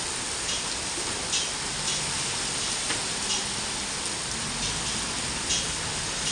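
Steady rain falling, an even hiss broken now and then by a sharper drop striking a surface.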